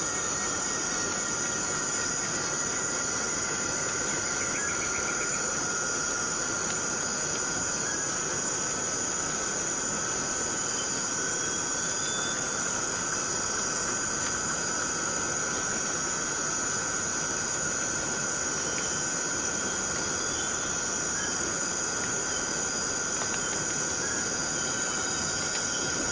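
Steady rain falling in tropical rainforest, with insects droning continuously at two steady pitches, one high and one lower.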